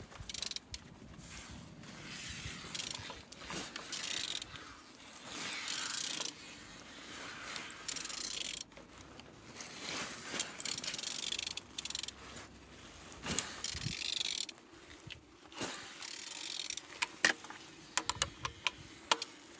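Mercedes OM646 four-cylinder diesel engine being turned over by hand with a wrench on the crankshaft: a series of mechanical scraping, whirring strokes, with a run of sharp clicks near the end. The engine turns freely.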